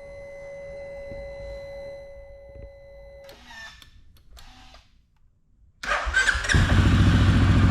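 A steady tone sounds for about three seconds and stops, followed by a couple of short noises and a brief near-silent gap. Then, about six seconds in, the CF Moto CF400 quad's engine cranks, catches and settles into a steady, even idle, its fresh oil circulating after an oil change.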